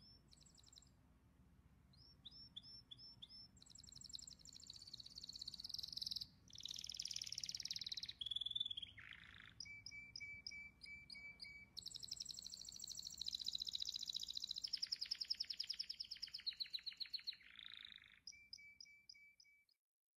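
Songbird singing varied phrases of high chirps, repeated whistled notes and fast trills, stopping shortly before the end.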